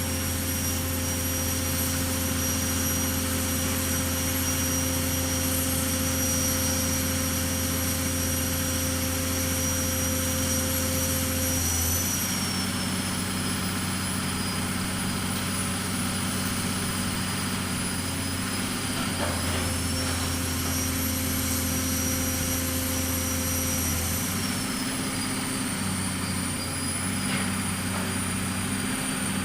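Pile-driving machine running steadily, a continuous engine drone with a high whine on top and no hammer blows. About twelve seconds in, and again near twenty-four seconds, the low hum changes and the whine drops slightly in pitch.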